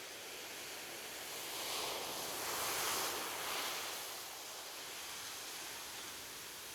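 Ocean surf: a wave breaks and washes up the shore, swelling about two seconds in and falling away a couple of seconds later, over a steady hiss of sea.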